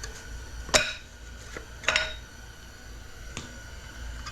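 Metal transmission internals clinking against each other and the bench as they are handled during a 4L60 teardown: four sharp clinks with a short ring, the two loudest about a second apart.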